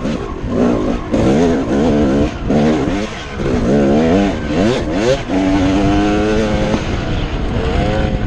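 Dirt bike engine revving up and down in quick repeated sweeps, then holding a steady pitch for about a second and a half before climbing again near the end.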